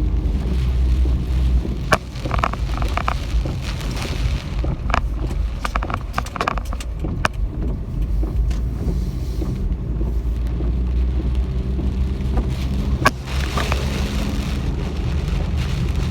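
Typhoon wind and rain: a steady low rumble with scattered sharp ticks of drops striking.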